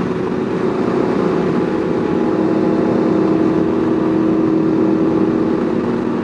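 Sport motorcycle engine running at a steady cruise, its tone holding nearly level, with wind rushing over the rider.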